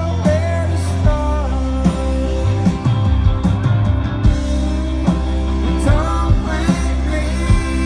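Live band music: a singing voice over sustained bass notes and a drum beat with regular hits.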